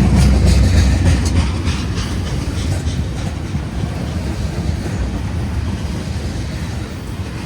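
CSX freight train rolling past, its cars' steel wheels clicking over the rail joints over a heavy low rumble; the clicking is densest in the first couple of seconds and the rumble eases off slowly after that.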